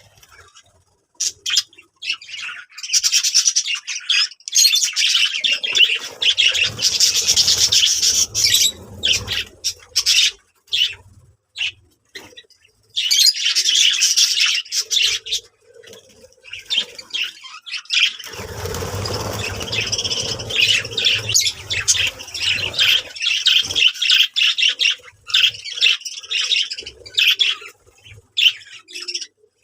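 Budgerigars chattering and warbling in fast, busy bouts of chirps and squawks, pausing briefly now and then.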